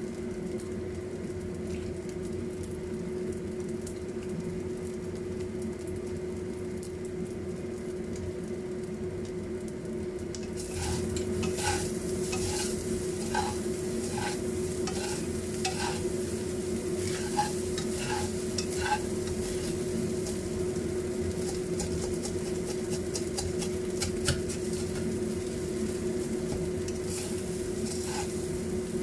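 Lumpia shanghai (small spring rolls) deep-frying in a pot of oil, with a steady sizzle over a constant low hum. From about ten seconds in, a metal spatula scrapes and knocks against a wok as rice is stirred, in short strokes roughly once or twice a second.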